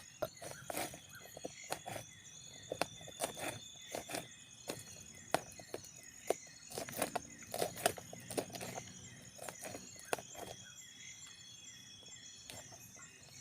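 Irregular light knocks and clicks, as of camp cookware being handled, over steady insect chirping in the jungle.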